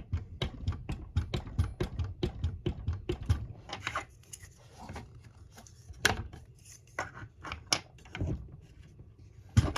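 Quick small clicks and taps of model car parts being handled, several a second for the first three and a half seconds, then a few scattered clicks.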